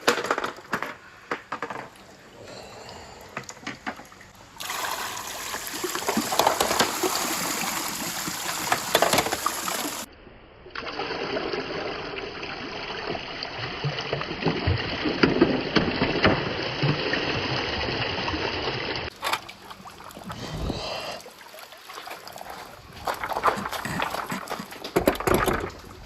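Water rushing and trickling through a PVC-pipe and rain-gutter marble run, with marbles clicking and rattling along it. The sound changes abruptly a few times.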